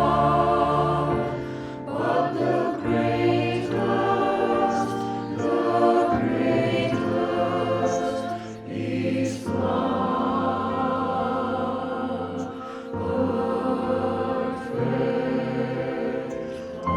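A choir singing with instrumental accompaniment, the voices holding sustained chords that change every second or two over steady bass notes.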